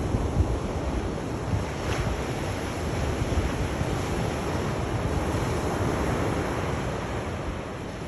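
Sea waves breaking and washing on the shore in a steady surge, rising to a swell about halfway through and then easing off, with a low rumble of wind.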